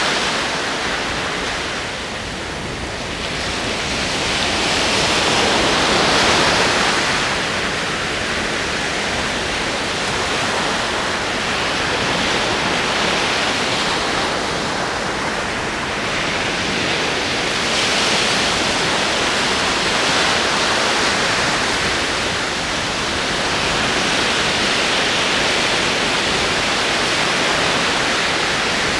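Ocean waves rolling in, a continuous wash of surf that swells and eases every several seconds.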